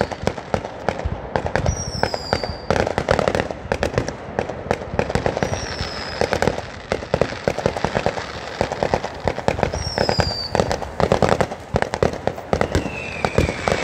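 Aerial fireworks display going off continuously: dense rapid crackling and bangs, with a falling whistle every few seconds.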